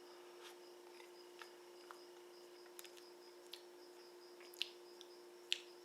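Near silence: a steady faint hum with a few soft clicks and smacks of a mouth tasting ice cream, the two loudest clicks near the end.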